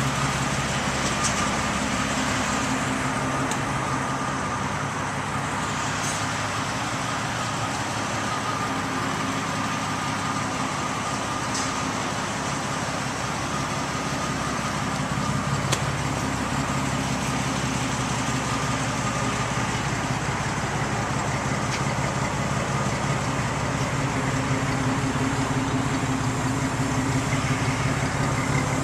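Jeep Cherokee XJ engine idling steadily under a constant hiss.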